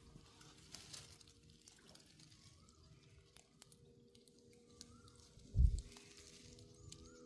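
Quiet outdoor ambience with a faint steady hum and a few soft, short bird chirps, broken by one low thump a little over halfway through.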